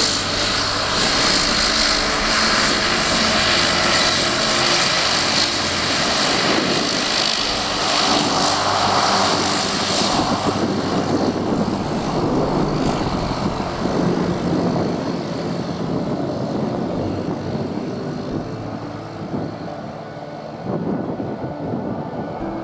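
De Havilland Canada Dash 8-300 turboprop taxiing, its engines and propellers running with steady held tones over a hiss. The sound grows fainter and duller from about halfway through.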